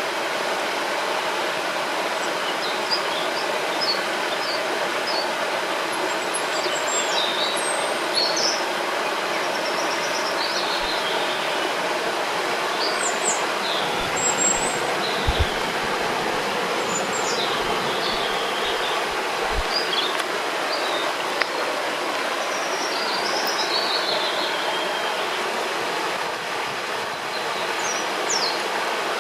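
River water rushing steadily, with small birds chirping and singing in short phrases throughout.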